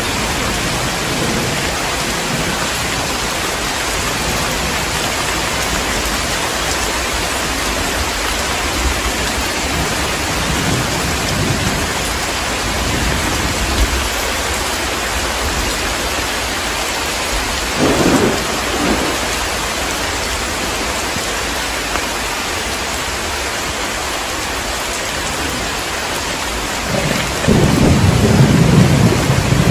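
Heavy, steady rain with thunder: a short low rumble about two-thirds of the way through, then a louder, longer rumble of thunder near the end.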